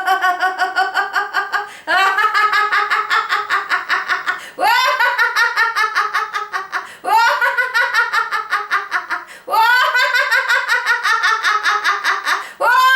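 A woman laughing heartily in repeated bouts of rapid 'ha-ha-ha', each a couple of seconds long, starting high and falling in pitch. It is deliberate laughter-yoga laughter, the gradient laughter that builds with the imagined flames and boiling water.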